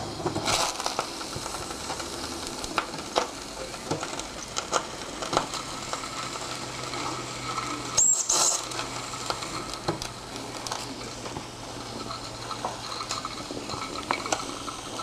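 Spirit-fired Mamod TE1A toy steam engine with its boiler under steam: a steady sizzling hiss with frequent small spits and crackles, and a short louder hiss of escaping steam about eight seconds in. Water is bubbling out at the piston, which is not yet moving.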